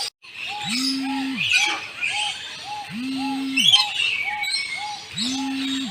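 Several birds chirping and squawking together, over a low hooting note that repeats about every two seconds and a soft short call about twice a second.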